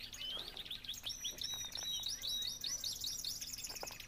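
Birds chirping: overlapping runs of quick, high chirps, several a second, without a break.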